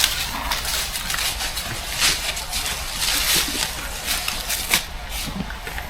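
Irregular rustling and crunching, with louder bursts about two seconds in, around three seconds in and near the end.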